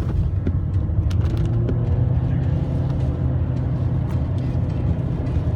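Engine and road noise heard from inside a moving car: a steady low rumble with a few light clicks and knocks scattered through it.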